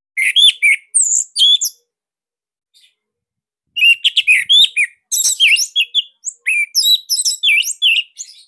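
Orange-headed thrush (anis merah) singing in quick, loud, sweeping whistled notes: a short burst of phrases, a pause of about two seconds, then a longer, denser run of varied phrases.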